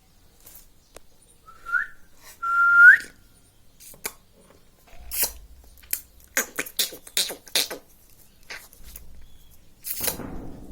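Indian ringneck parrot whistling: a short note, then a louder, longer steady one, each flicking upward at the end. A run of short sharp clicks and chirps follows.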